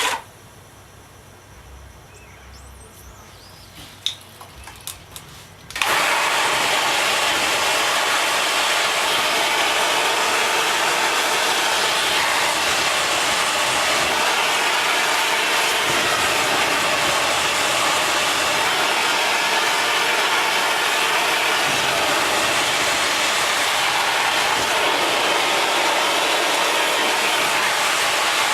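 Homemade tin-can jet engine (thermojet) burning lighter fluid: a few sharp clicks, then about six seconds in it starts abruptly and runs with a loud, steady rushing noise.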